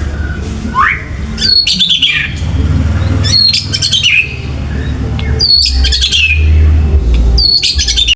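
White-rumped shama (murai batu) singing: four loud phrases about two seconds apart, each of sharp high notes ending in a falling sweep. A steady low hum runs underneath.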